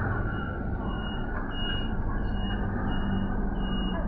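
A single high-pitched electronic warning beep repeating evenly, about one and a half beeps a second, over the steady rumble and hiss of city traffic.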